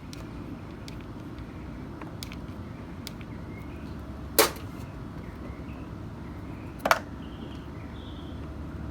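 Two sharp clicks about two and a half seconds apart, with a few faint ticks, over a steady low hum: small parts and tools being handled on a workbench.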